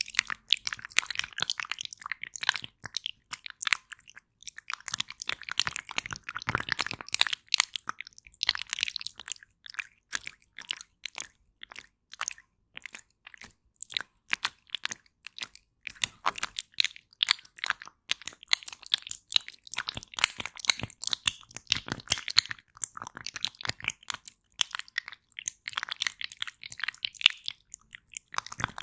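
Aloe vera gel being wiped and squished: dense, irregular sticky crackling and popping clicks that swell and thin out in waves.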